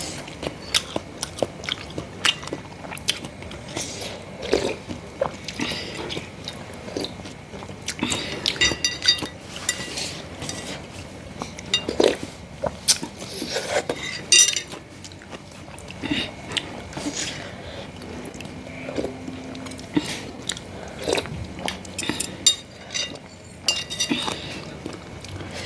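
A person chewing and biting bakso meatballs with irregular wet mouth clicks. A spoon clinks against the bowl now and then.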